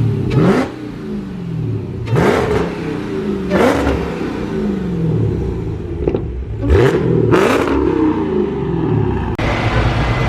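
Car engine revved in about five sharp blips, each rising quickly and then falling slowly back toward idle.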